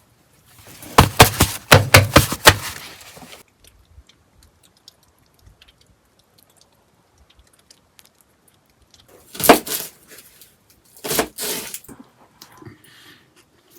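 A quick run of sharp cracks and snaps lasting about two and a half seconds, then two shorter bursts of cracks several seconds later.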